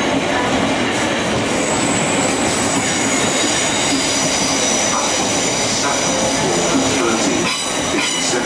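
Thameslink Class 700 Desiro City electric train rolling slowly along a curved platform, its wheels running with a steady rumble. From about two seconds in, a high wheel squeal of several steady tones sets in from the wheels grinding on the curve.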